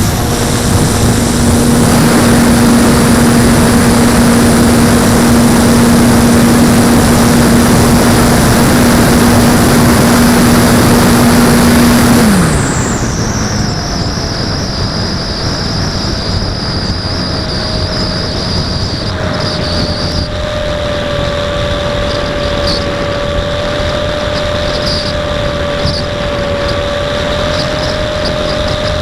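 Electric motor and propeller of an Apprentice S 15e RC trainer plane running at a steady pitch under heavy wind noise. About twelve seconds in, the throttle comes off: the pitch drops away and the sound gets quieter, leaving a fainter steady whine.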